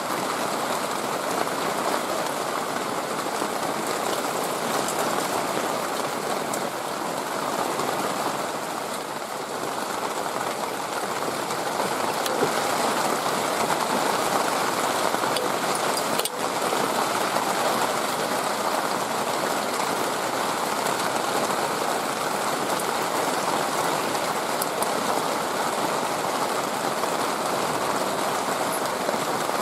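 Steady rushing noise, with a brief break about sixteen seconds in.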